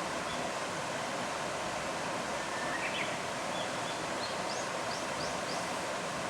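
Steady rush of flowing river water, with a few faint, high thin bird notes in the middle: a short couple of notes about halfway, then a quick run of about five chirps.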